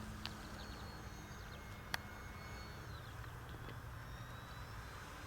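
Faint outdoor ambience: small birds chirping over a low steady hum, with one sharp click about two seconds in.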